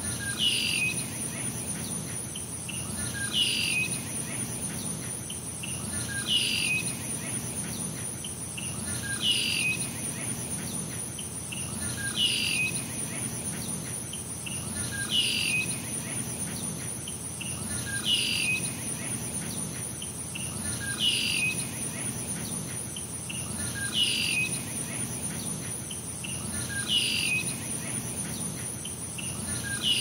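A short, falling bird call repeats at an even pace, about once every three seconds, over a steady high-pitched drone of insects.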